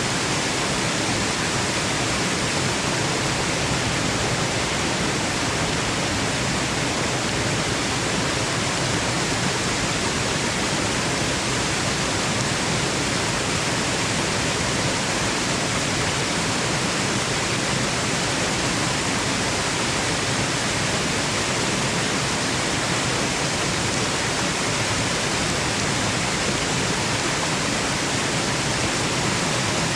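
Waterfall rushing in a steady, unbroken hiss that never changes in level.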